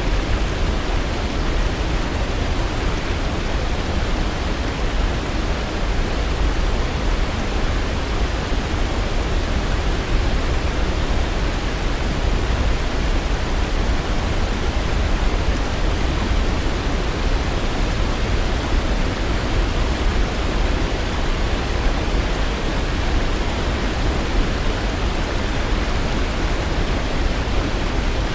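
Waterfall: a steady, unbroken rush of falling water, heaviest in the deep low end.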